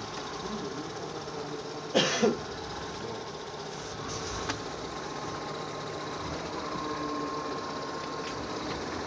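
LG Hom-Bot robot vacuum running steadily, its motor and brushes giving a continuous mechanical hum. About two seconds in come two sharp knocks in quick succession, followed by a lighter click a couple of seconds later.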